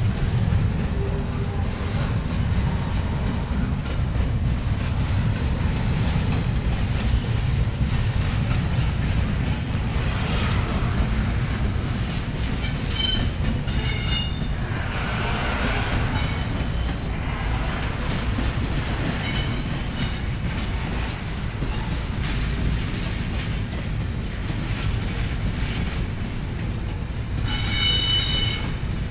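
Double-stack intermodal freight cars rolling past on jointed track: a steady low rumble of wheels on rail, broken by short high-pitched wheel squeals in the middle and a longer squeal near the end.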